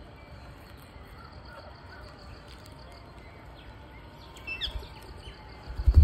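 Outdoor background rumble with birds calling: a few faint chirps early on, then a quick cluster of short, falling calls about four and a half seconds in. A sudden loud low rumble starts right at the end.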